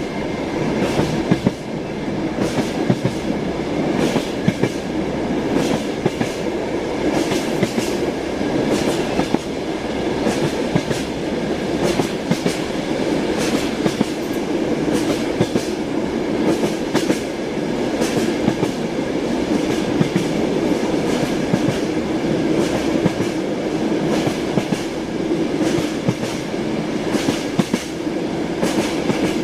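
Wheels of a moving passenger train clacking over rail joints, heard from inside a compartment, over the steady rumble of the rolling car. Sharp clicks come through irregularly.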